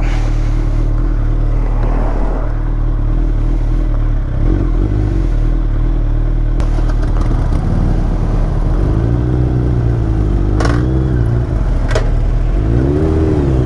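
2021 Suzuki Hayabusa's inline-four engine through an Akrapovič full-system exhaust, running steadily at low revs, then the revs rise and fall three times in the last few seconds, with two sharp clicks between them.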